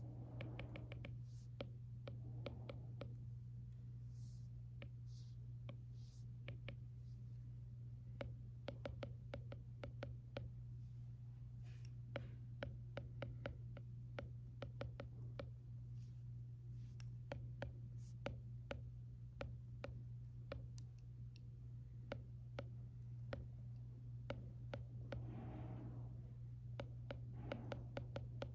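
Apple Pencil tapping and writing on an iPad's glass screen, many light irregular clicks, over a steady low room hum.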